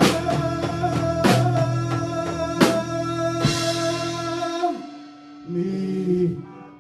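Live band playing an instrumental passage on electric guitar and drum kit, with heavy drum hits about every 1.3 seconds. The band drops out about four and a half seconds in, leaving a short held note that stops near the end.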